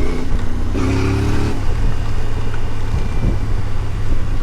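CFMoto 450MT's parallel-twin engine running steadily at road speed under a low rumble, with a short louder pitched burst about a second in.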